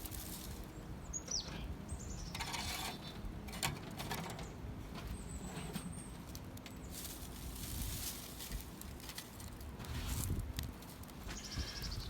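Wind buffeting the microphone with a steady low rumble, and bursts of rustling as dry leaves and pine needles are handled on a small tinder fire. A bird chirps faintly a few times.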